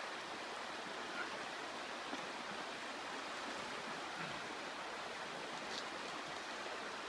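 A river flowing in a steady rush of water.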